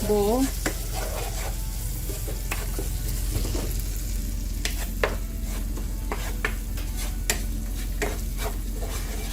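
Onion, tomato and spice masala sizzling in hot oil in a pan while being stirred, with scattered clicks and scrapes of the spoon against the pan.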